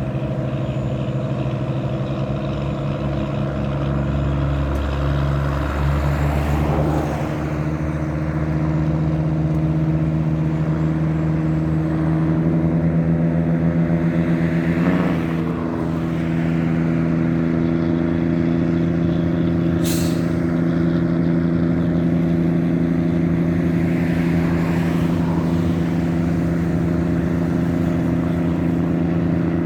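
River tugboat's diesel engine running steadily at an even pitch, with a brief sharp noise about twenty seconds in.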